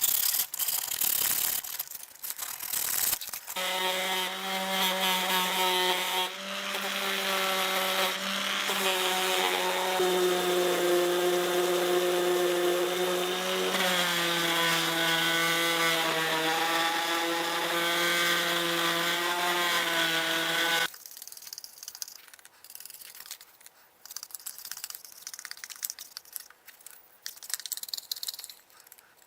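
A power tool motor runs with a steady hum for about seventeen seconds, its pitch shifting slightly a few times, then cuts off suddenly. Clicks and rattles of tool handling come before and after it.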